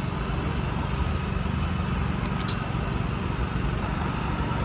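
A steady low engine hum: an engine running at a constant idle.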